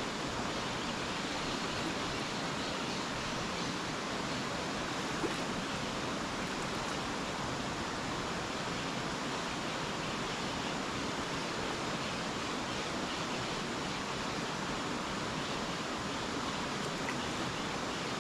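River water rushing steadily, an even hiss without pauses, with one faint tick about five seconds in.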